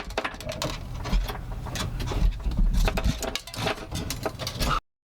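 Irregular clicks, knocks and low thuds of hand work on a hitch bolt under the vehicle. The bolt is binding and will not cinch down. The sound cuts off abruptly near the end.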